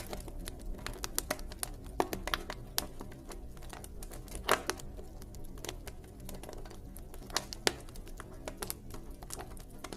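Wood campfire crackling: irregular sharp pops and snaps, a few louder ones about four and a half seconds and seven and a half seconds in, over a low steady rumble of the burning fire.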